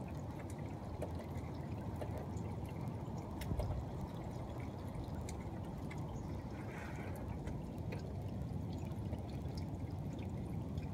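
Steady downpour of heavy rain, an even rushing hiss with scattered faint ticks of drops. It is one of the short bursts of pouring rain that come and stop again as a warm front passes.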